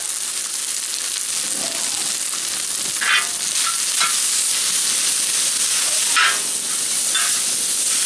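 Cooked spaghetti frying in hot olive oil on a discada (plow-disc cowboy wok), a steady sizzle. A few short scrapes come through as the noodles are stirred and broken apart.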